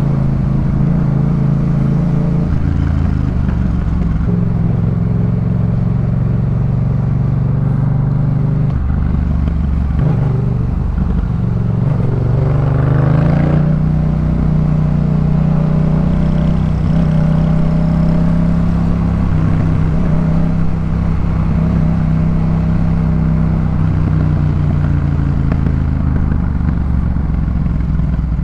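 Yamaha MT-07 parallel-twin engine through a Jeskap K4 full aftermarket exhaust, running steadily under way. About ten seconds in, the note drops, then climbs again a couple of seconds later before settling.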